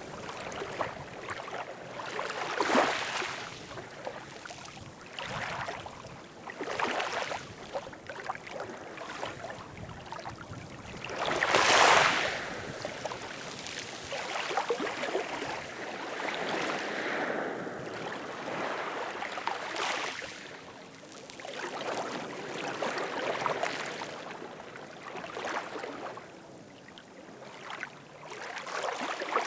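Ocean waves washing in and drawing back, rising and falling every few seconds, with one louder wave near the middle.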